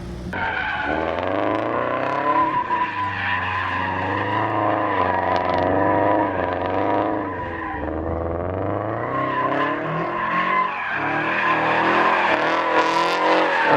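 A car drifting through a donut: tires squealing steadily while the engine revs rise and fall.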